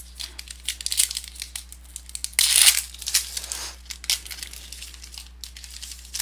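Crinkling and tearing of a foil trading-card pack wrapper being ripped open and handled, a dense run of short crackles with one longer, louder rip about two and a half seconds in.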